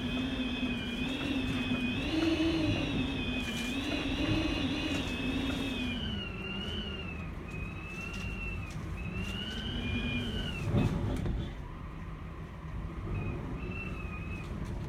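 Typhoon-force wind howling around an apartment building: a wavering whistle that rises and falls in pitch over a steady low rumble of gusts, with a brief louder rush about eleven seconds in.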